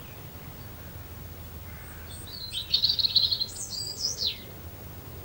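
A small songbird sings one short phrase about two seconds in: a rapid trill followed by a few high notes and a falling note, over a steady low background rumble.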